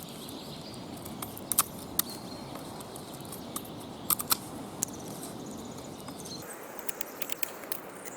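Victorinox Soldier pocketknife blade carving a point on a wooden stick: strokes of the plain and serrated edge along the wood, heard as scattered sharp clicks and snaps, with a quick run of them near the end.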